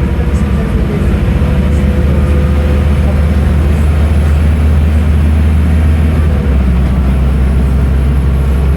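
Diesel engine and drivetrain of a Scania N310UA articulated city bus running, a steady loud low drone; the lowest note drops about six and a half seconds in.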